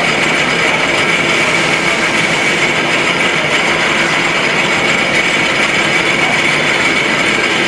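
Milling machine running steadily: a dense, even noise with a constant high whine.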